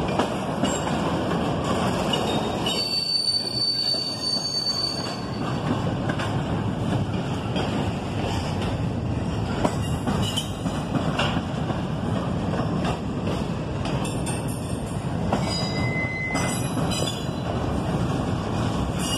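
Double-stack intermodal well cars of a freight train rolling past: a steady rumble of steel wheels on rail with scattered clicks over the joints. Brief high-pitched wheel squeal comes a few seconds in and again late on.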